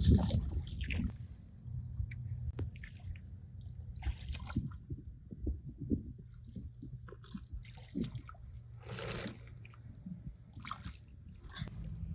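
Small splashes, drips and wet squelches of water being disturbed in short bursts, with a longer splash about nine seconds in.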